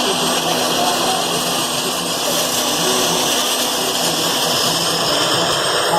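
Sikorsky S-70A Black Hawk helicopter's twin turboshaft engines and rotor running steadily, a loud even whine and rush of noise with a steady hum underneath.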